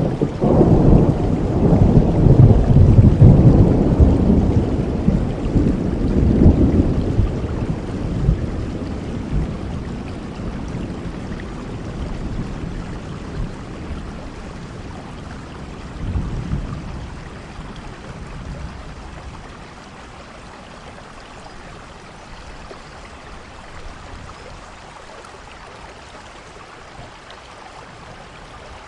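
Thunder rolling over steady rain: a long, loud rumble in the first several seconds that slowly dies away, a shorter one about sixteen seconds in, then the rain alone.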